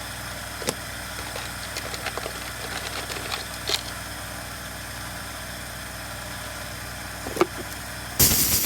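Steady mechanical hum with a few light clicks and taps of small metal parts being handled. Near the end a loud, hissing noise starts suddenly.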